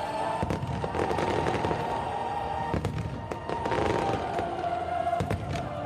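Fireworks bursting in a rapid run of bangs and crackles, over show music with long held tones.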